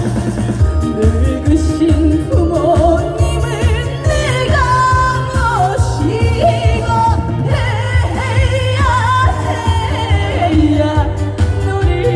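A female singer sings a Korean trot song live through the PA over a band backing track with a steady bass beat. The voice glides and wavers with heavy vibrato.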